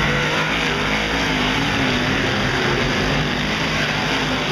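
A field of big-block dirt modified race cars running at speed, a dense, steady drone of several V8 engines with their pitch wavering up and down.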